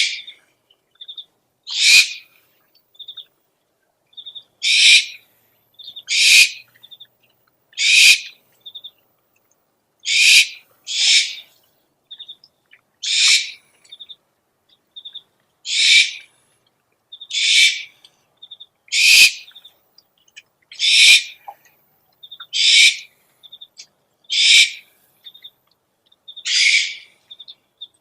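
Owl giving harsh, hissing screeches about every two seconds, each under half a second, with short high twittering pips between them.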